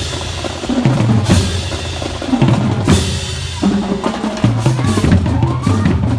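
Parade marching band playing: snare and bass drums beating over a low bass line that steps between notes.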